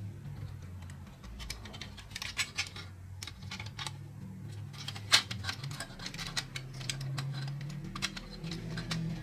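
Irregular light clicks and taps of small hard parts being handled, one sharper click about five seconds in, over a steady low hum.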